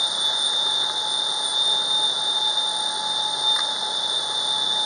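Motor yacht under way at speed, its twin MAN 800 hp diesel inboards running steadily, with a constant rush of wind and water and a steady high-pitched whine over it.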